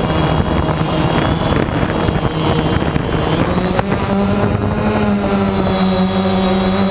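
A motor running steadily; about four seconds in its pitch rises, then holds level.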